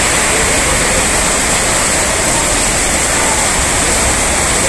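Heavy rain pouring down steadily, a loud, unbroken rush.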